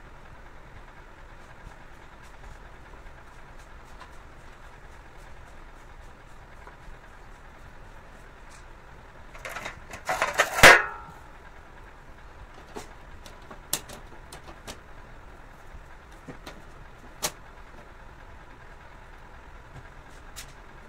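A loud burst of rattling clatter about ten seconds in, then a few scattered sharp clicks, over a steady low background noise.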